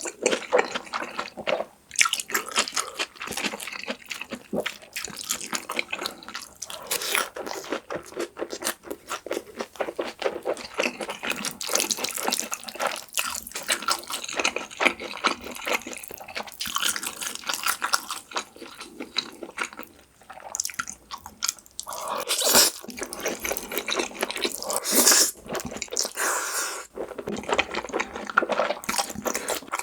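Close-miked wet eating sounds of black bean noodles: chewing and slurping with a steady stream of small sticky, wet clicks and a few louder slurps near the end.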